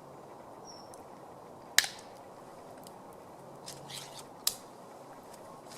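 Metal camp cookware being handled: a few sharp clicks and knocks, the loudest about two seconds in with a short ring, another about four and a half seconds in, over a steady low hiss.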